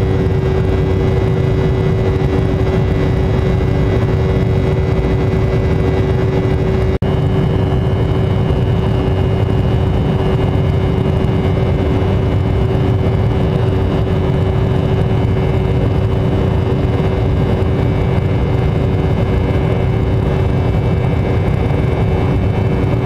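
Motorcycle running at a steady cruising speed, the engine's even drone mixed with wind and road noise. It drops out for an instant about seven seconds in, then carries on.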